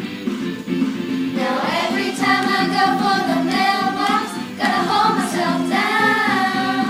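Children's voices singing a song together over a steady instrumental accompaniment; the singing comes in about one and a half seconds in, with long held notes.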